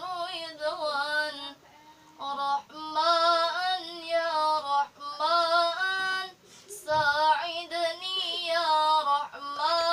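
A young, high voice singing a sholawat (Islamic devotional song) in long, ornamented held notes, with two short breaks for breath.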